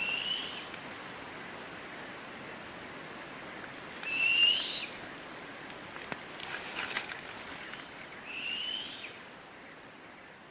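A bird calling three times, each a short rising whistle about four seconds apart. A patch of faint crackling comes between the second and third calls.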